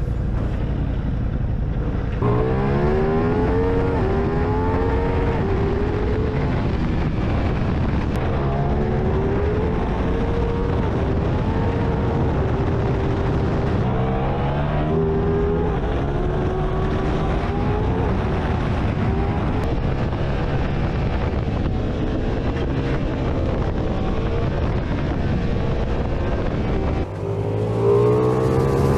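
Ducati Diavel V4's V4 engine pulling through the gears, its pitch climbing and dropping back at each upshift, again and again. Near the end the sound dips briefly and then climbs once more.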